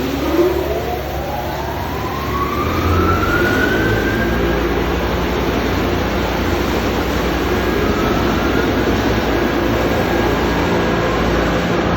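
Automatic car wash machinery running: a loud steady rushing noise under a low hum, with a motor whine that rises in pitch over a few seconds, twice.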